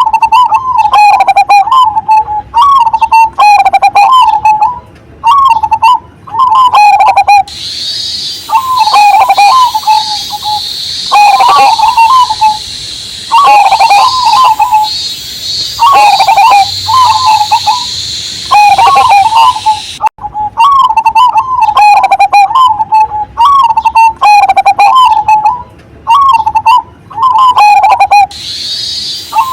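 Perkutut (zebra dove) of the Cemani Majapahit strain cooing loudly and steadily, its quick warbling phrase repeated again and again. Through the middle a steady high cicada drone runs behind it, with higher chirping notes over the top.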